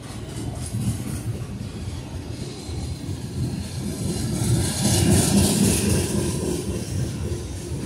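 Freight train of covered hopper cars rolling past close by: a steady rumble of steel wheels on the rails, growing louder about five seconds in.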